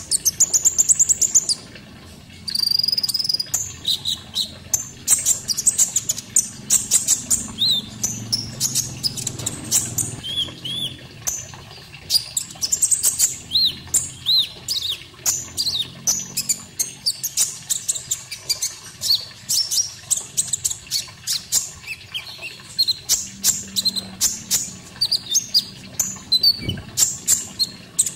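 Konin songbird singing a dense, fast run of high chirps, trills and short rising-and-falling whistled notes, with a short pause about two seconds in. It is a masteran tutor recording, played to teach caged songbirds this song.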